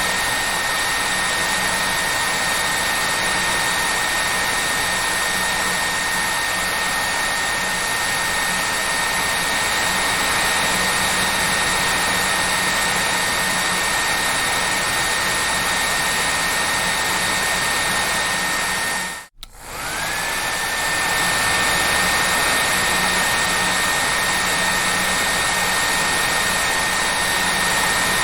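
Hair dryer running with a steady rush of air and a high motor whine. About two-thirds through it cuts out for a moment, then comes back with the whine rising back up to pitch as the motor spins up again.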